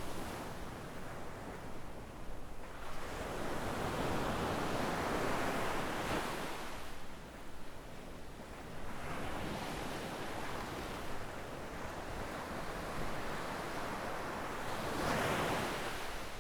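Gentle sea waves breaking and washing up a sandy shore, swelling and fading in three surges.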